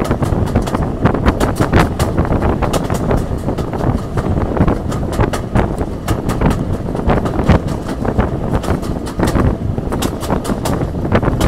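Wind buffeting the microphone held out of a carriage window, over the noise of a train running at speed behind Class 37 diesel locomotive D6700.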